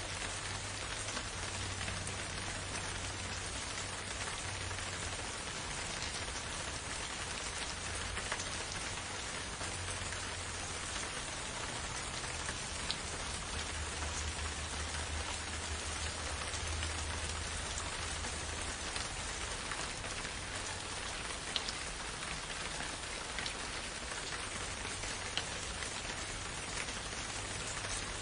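Steady rain falling in a forest, an even hiss with occasional single drop ticks and a faint low rumble underneath.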